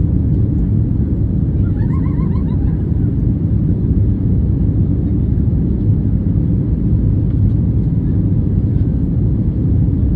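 Steady low cabin rumble of a British Airways Airbus A320 in flight, the engines and airflow heard from inside the passenger cabin. About two seconds in, a brief run of four quick rising chirps sounds over it.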